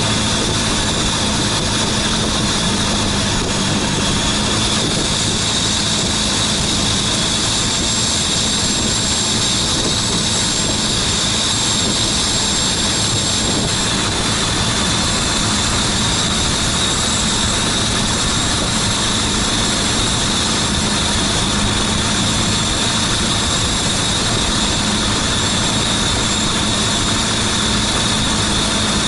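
Boat engine running steadily at a constant speed, heard from on board, with no change in pace.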